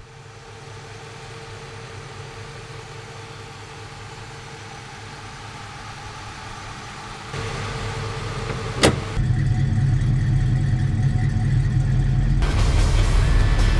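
1970 Chevy Nova SS's carbureted V8 engine idling, a steady low running sound that gets louder about seven seconds in and again just after a sharp click about nine seconds in.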